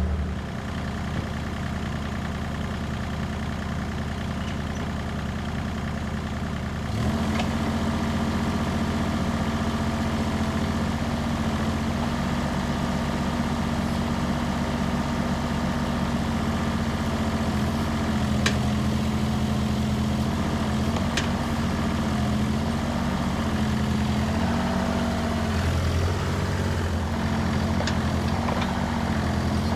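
Diesel engine of a compact construction machine running steadily. About seven seconds in it steps up to a higher, louder throttle, and after that its pitch dips and recovers every few seconds.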